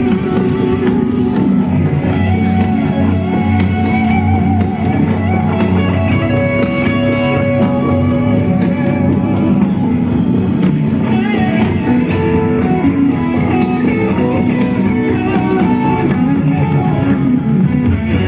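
Rock music from a band, led by guitar with wavering, bent held notes over a steady bass and rhythm backing.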